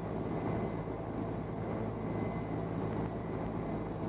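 Steady drone of a Cessna 172N's four-cylinder Lycoming engine and propeller in flight, a low even hum with a faint steady high whine over it.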